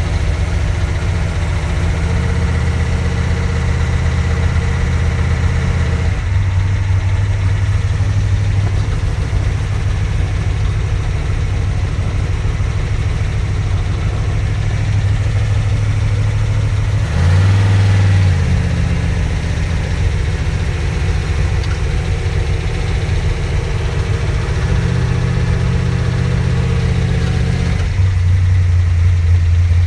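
Trophy truck race engine running at idle and low speed. Its pitch shifts up and down a few times, with a brief dip and rise about two-thirds of the way through.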